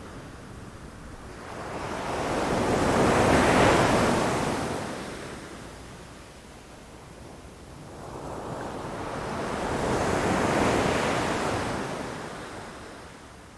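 Ocean waves washing in against rocks: two swells of surf, the first peaking about three and a half seconds in and the second about ten seconds in, each rising and then ebbing away.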